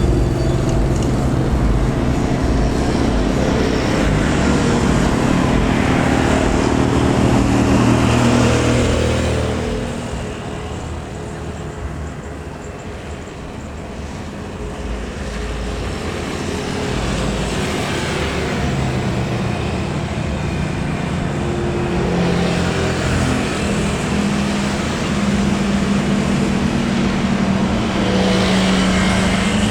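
Jet airliner engine noise, loud and continuous, easing off in the middle and building up again toward the end.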